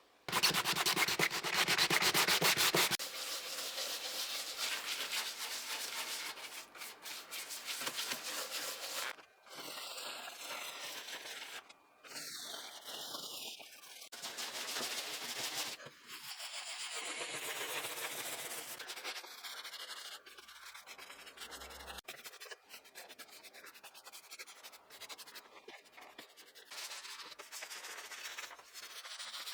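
Sanding or rubbing strokes on a restoration part. The first few seconds are a loud, dense, harsh scrape, followed by an uneven stretch of rubbing with short pauses.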